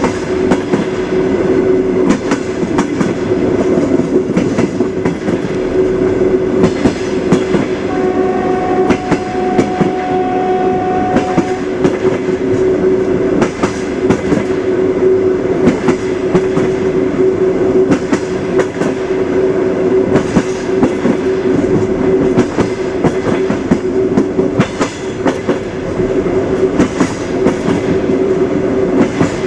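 Train running on the rails: a steady rumble and hum with the clickety-clack of wheels over rail joints. About eight seconds in, a horn-like tone sounds for roughly three and a half seconds.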